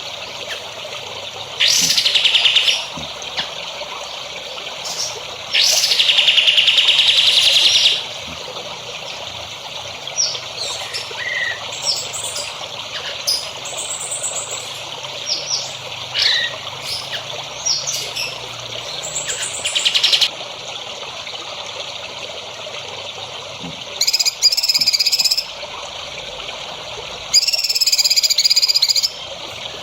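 Songbirds singing: a loud buzzy trill about two seconds in and a longer one around six seconds, scattered short chirps through the middle, and two ringing, wavering phrases near the end, over a steady trickle of water.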